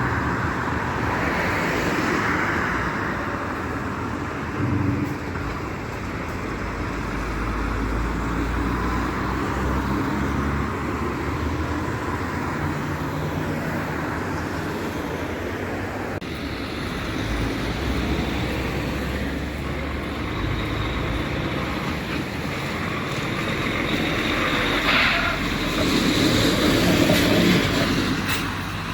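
Road traffic passing: truck and car engines with tyre noise, swelling louder as a vehicle passes near the end.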